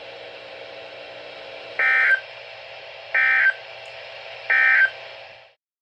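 Three short, identical bursts of data tones from a NOAA Weather Radio broadcast, about a second and a half apart, over a steady radio hiss: the SAME end-of-message code that closes a severe thunderstorm warning. The audio cuts off near the end.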